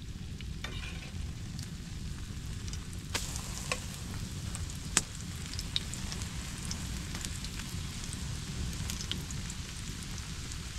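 Food sizzling as it fries over a campfire, a steady hiss broken by sharp crackling pops, one loud pop about five seconds in.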